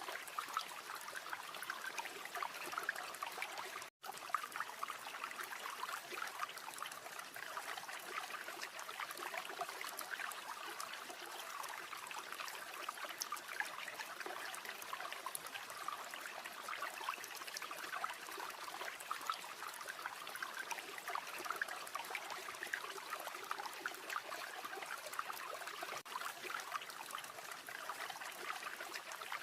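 River water flowing and babbling steadily, with one split-second dropout about four seconds in.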